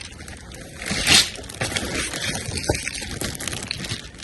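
Rustling and knocking of items being rummaged through in a dumpster, with a louder rustle about a second in.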